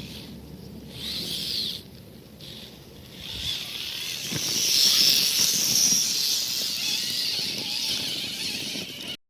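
Electric drive motor and gears of a radio-controlled scale trail truck whining under load. A short high whine rises and falls about a second in, then a longer, louder whine starts about four seconds in and cuts off suddenly near the end.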